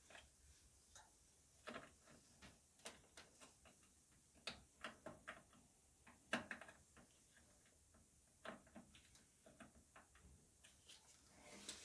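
Faint, irregular clicks and light taps of parts and tools being handled, with the sharpest tap about six seconds in.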